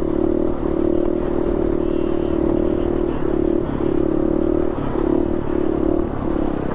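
Dirt bike engine held at high, steady revs with brief dips in pitch every second or so, as the rider holds the bike up in a wheelie.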